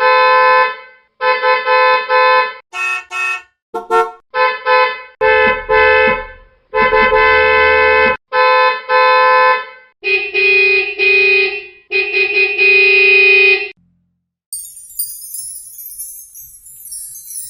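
A long run of short, horn-like honks in quick bursts of varying length, each a bright pitched note. They stop about 14 seconds in, and a high jingling like small bells starts shortly after.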